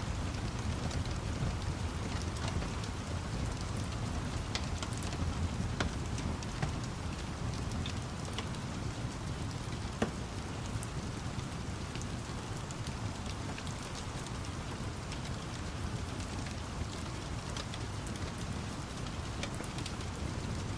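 Steady rain with a low rumble underneath, mixed with a fireplace fire crackling in scattered sharp pops, one louder pop about halfway through.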